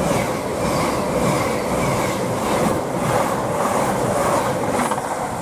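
CrossCountry Voyager diesel multiple unit (Class 221 leading, Class 220 at the rear) passing through the station, a steady loud rush of wheel and rail noise.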